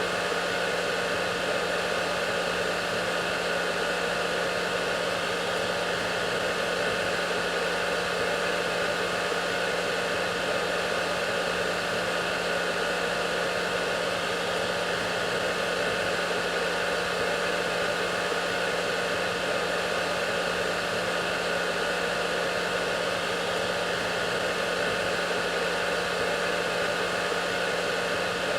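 Hair dryer running steadily: a continuous rush of blown air over a steady low motor hum, unchanging throughout.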